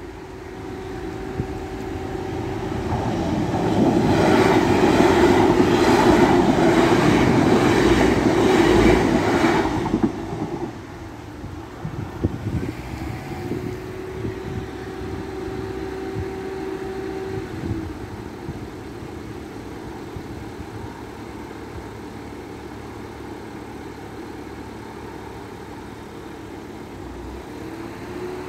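A train passing over a level crossing: its rumble builds over a couple of seconds, stays loud for about six seconds with wheels clacking over the rail joints, and drops away suddenly about ten seconds in. A steady tone sounds on and off: before the train, again a few seconds after it, and near the end.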